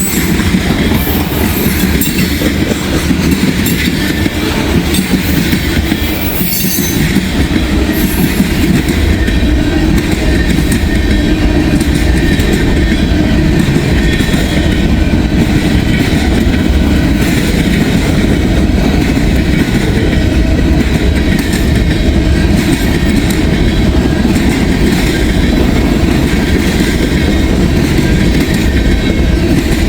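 Freight train rolling past at speed: a loud, steady rumble of steel wheels on rail with clickety-clack from the rail joints. High-pitched wheel squeal comes through in the first several seconds.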